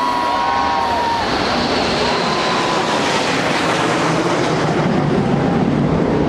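Mirage 2000 fighter jet flying low overhead: a loud jet roar that swells towards the middle, with a few short high whistles over it.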